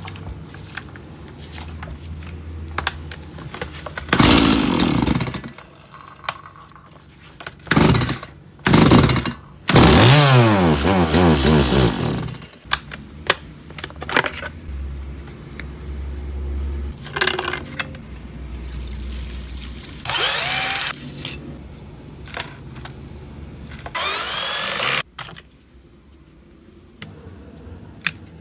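Stihl MS 180 two-stroke chainsaw engine running, revved in several short bursts, one of which falls away in pitch as it drops back, with quieter low running in between.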